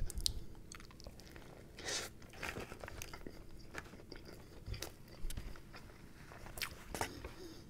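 Close-miked chewing of a fried chicken sandwich, with scattered small crunches and mouth clicks.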